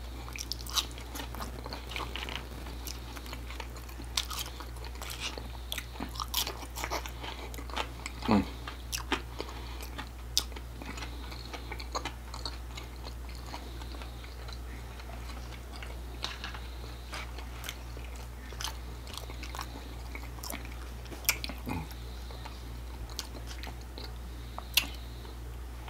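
Close-miked mouth sounds of a man chewing ketchup-dipped French fries: wet smacks and short clicks, scattered irregularly, over a steady low hum.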